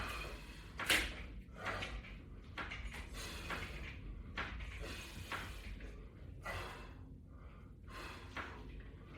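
A person breathing hard in short, irregular puffs while doing resistance-band squats, the strongest puff about a second in.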